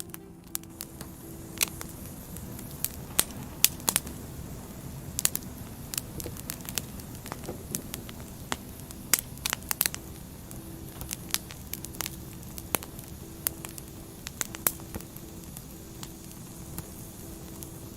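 Wood fire crackling, with irregular sharp pops and snaps, several a second at times, over a steady low rush of burning logs.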